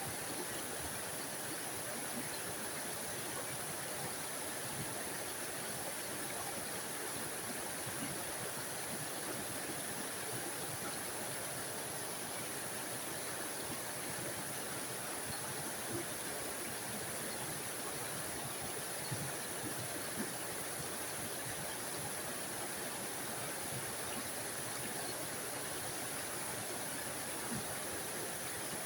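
A small forest waterfall splashing and rushing in a steady, even stream of water noise with a hissy top end.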